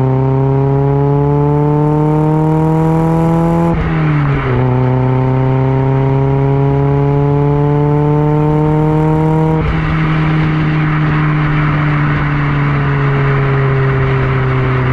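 Mazda MX-5 Miata four-cylinder engine through a Yonaka axle-back exhaust, accelerating through the gears. Its note rises steadily, drops at a gear change about four seconds in, then climbs again. About ten seconds in the engine eases off and its pitch falls slowly, while a rush of wind and road noise comes up.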